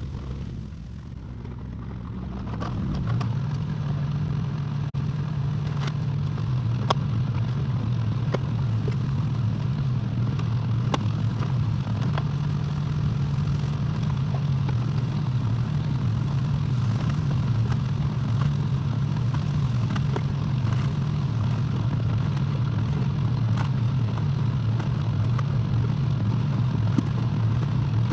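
Excavator engine coming up to working speed over the first few seconds, then running steadily, with scattered short metallic clanks and clicks.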